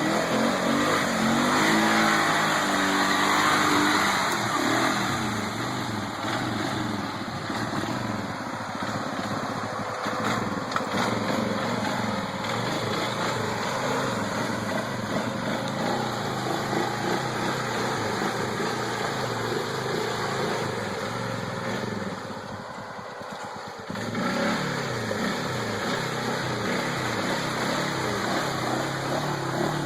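Polaris Sportsman 500 ATV's single-cylinder engine running and revving, climbing in pitch in the first few seconds, then running more steadily. About 22 seconds in it drops off for a couple of seconds before picking up again.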